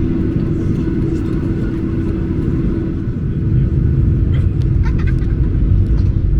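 Cabin noise of a Boeing 737-800 taxiing: a steady low rumble of the CFM56 engines at taxi power and the rolling gear, with a steady hum that fades about three seconds in. After that the rumble grows slightly louder, with a few faint ticks.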